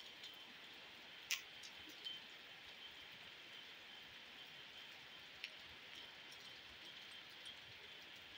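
Faint, steady hiss of rain falling, broken by a few sharp clicks, the loudest about a second in.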